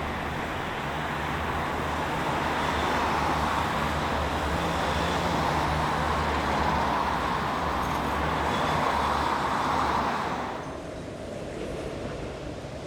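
A tram running in street traffic: a steady low motor hum under road noise. The sound drops suddenly about ten and a half seconds in.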